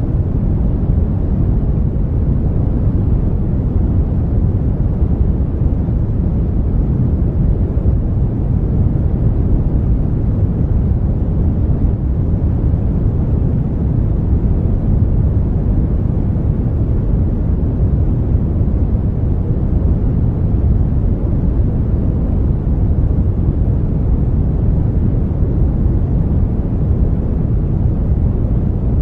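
Synthetic brown noise: a steady, deep rushing hiss weighted toward the bass, with no change or events.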